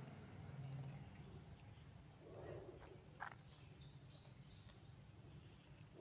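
Faint high bird chirps over quiet outdoor background: a single chirp about a second in, then a quick run of about five chirps a little past halfway. A soft rustle of leaves brushing past sits between them.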